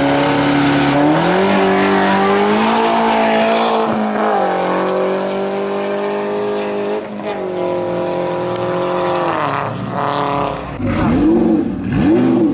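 Hillclimb race car engine running hard, its pitch holding steady and then dropping suddenly at each of several gear changes. Near the end the revs rise and fall quickly twice.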